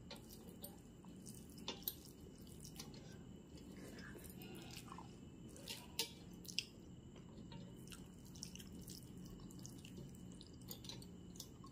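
Faint eating sounds: chewing a mouthful of rice, with scattered sharp wet clicks of the mouth and fingers squishing rice on the plate, over a low steady hum.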